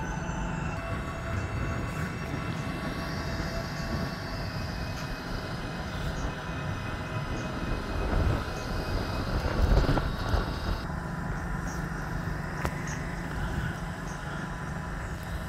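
Greater Anglia Class 755 bi-mode multiple unit running into the station platform, its train noise loudest about eight to ten seconds in.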